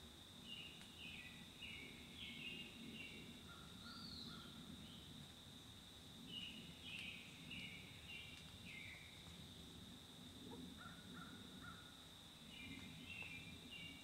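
Faint woodland birdsong. One songbird repeats a phrase of five or six quick notes about every six seconds, and a lower-pitched bird gives three short calls, twice. Under them runs a steady high-pitched drone and a low rumble.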